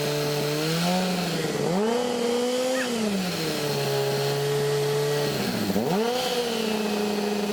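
An old car engine is revved up and held, drops back to a fast idle, then dips sharply for a moment and picks up again to a steady higher speed. It is being run during a Seafoam intake cleaning; the engine had been stalling whenever the spray went in.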